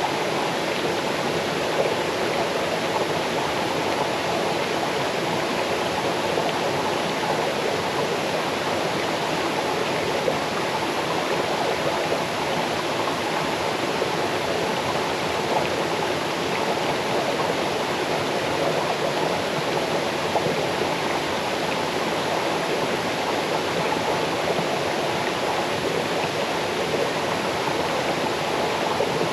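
Small waterfall cascading over stones into a stream: a steady, unbroken rush of falling water.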